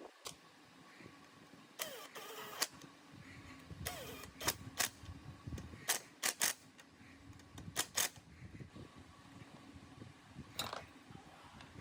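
Scattered sharp clicks and clanks of metal parts and hand tools being handled, with short rattling bursts about two and four seconds in, over a faint steady hum.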